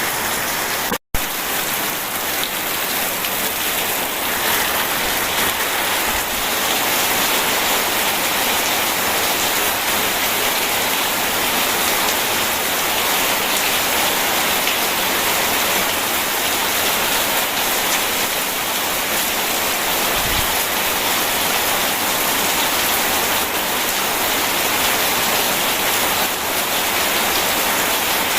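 Steady rain falling, an even hiss strongest in the upper range, broken by a split-second dropout to silence about a second in.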